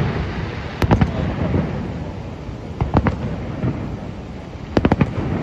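Fireworks shells bursting with sharp bangs: a couple about a second in, one near three seconds, and a quick cluster of several near the end.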